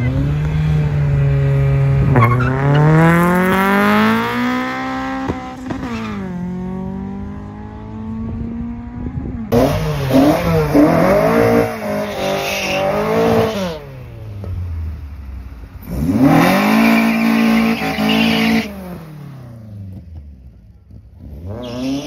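Drag car engine held at high revs at the line, then launching, its pitch climbing hard through a gear change and falling away down the strip. Then Mk1 VW Golf hatchbacks rev up and down at the start line, twice in long pulls and once more near the end.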